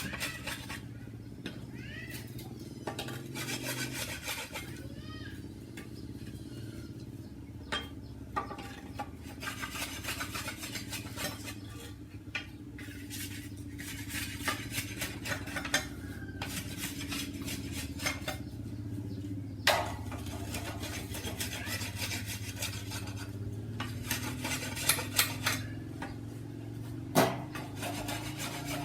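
Hard objects clinking, knocking and scraping again and again, with a few louder knocks, over a steady low hum.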